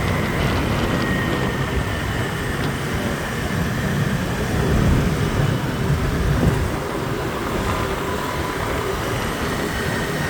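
Steady rumble of street traffic and wind heard while riding along a city road, with a faint high steady whine.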